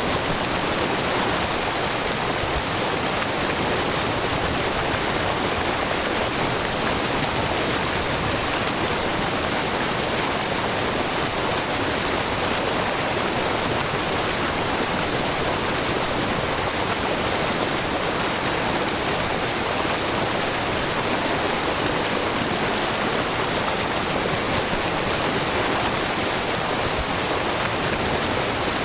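Water falling and splashing steadily at a broad, low waterfall of spring water, an even rushing hiss with no breaks.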